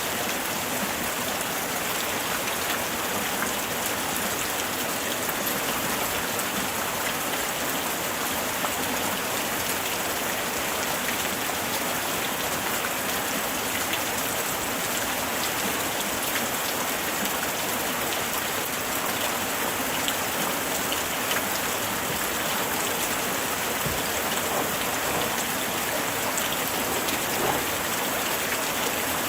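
Steady light rain falling, a dense even hiss of drops with fine individual drop ticks on surfaces.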